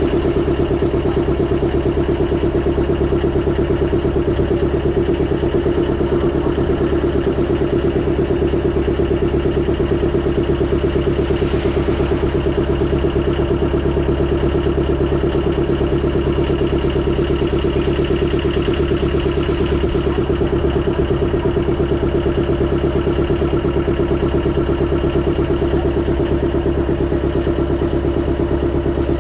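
Motorboat engine running steadily at a constant speed, a loud, even drone with no change in pitch.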